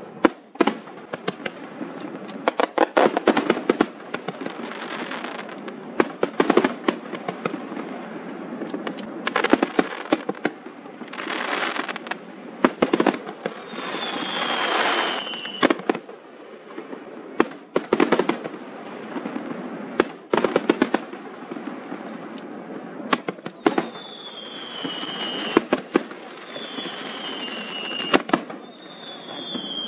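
Fireworks display: an irregular, rapid string of sharp bangs and crackles, with stretches of hissing crackle, and a few short whistles falling in pitch, one in the middle and three near the end.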